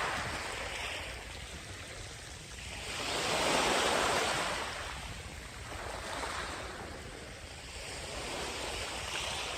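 Sea surf on a sandy beach: waves washing in, the sound swelling and fading in slow surges, with the biggest wave about three to four seconds in.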